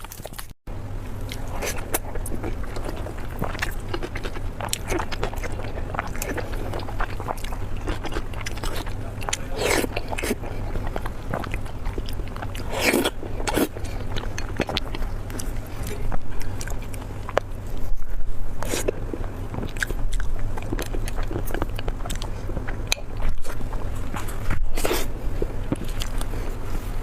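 Close-miked mukbang eating: a person biting and chewing food, with a continual run of small wet clicks and several louder bites or smacks spread through.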